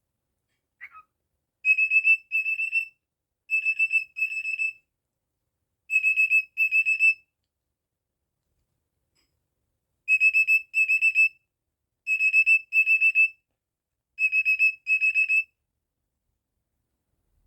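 Cockatiel whistling short, high, steady-pitched beeps in pairs, an alarm-clock-like beep-beep repeated six times with uneven gaps, after one short falling chirp near the start.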